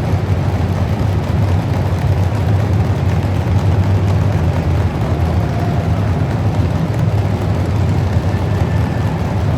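Truck engine running loudly and steadily, a low drone with no clear revving.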